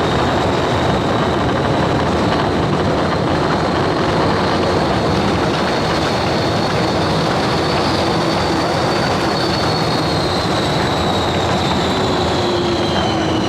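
Test Track ride vehicle running at high speed on its track: a steady rush of wind and wheel noise with a high whine that falls in pitch from about ten seconds in as the vehicle slows.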